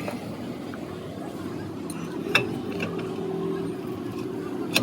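Steady background din with faint voices, and two sharp knocks, one about halfway through and one near the end.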